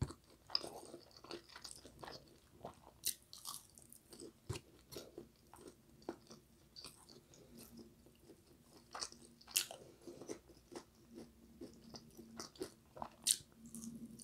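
Close-miked chewing and mouth sounds of a person eating a soft, oven-baked mozzarella stick: quiet wet smacks and clicks, with a few sharper clicks.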